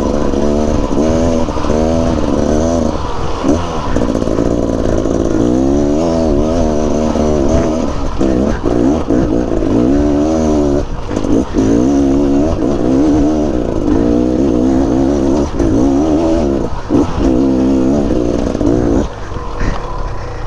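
Dirt bike engine revving up and down again and again under changing throttle while climbing a rough hill.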